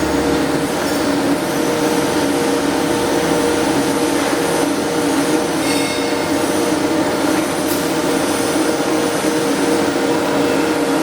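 Flux-cored arc welding on a carbon steel pipe in the 6G position: a steady, continuous arc hiss with a steady hum beneath it.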